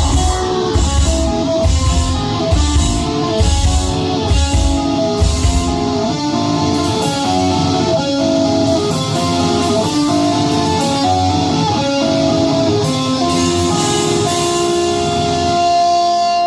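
Live heavy metal band playing: electric guitar picking a repeating melodic line over heavy drums and bass. About five seconds in, the drums and bass drop out and the guitar carries on alone, ending on a long held note.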